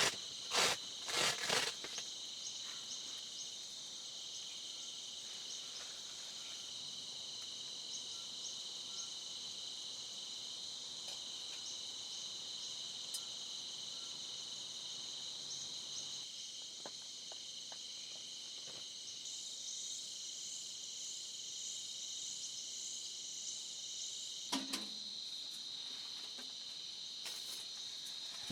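A steady, high-pitched chorus of insects trilling. A few loud, sharp knocks or rustles in the first couple of seconds, and one short thud about three-quarters of the way through.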